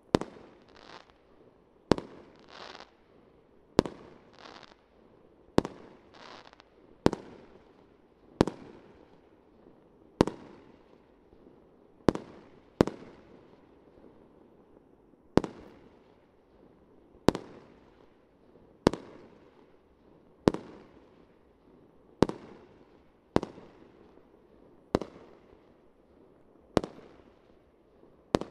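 Fireworks bursting in a steady series of sharp bangs, about one every second and a half, each trailing off in an echo. Some bangs in the first few seconds are followed by a brief hiss.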